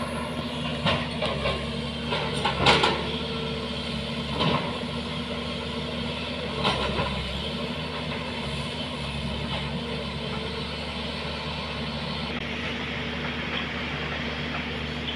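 A heavy vehicle's engine running at a steady pitch, with several short clattering knocks in the first seven seconds or so.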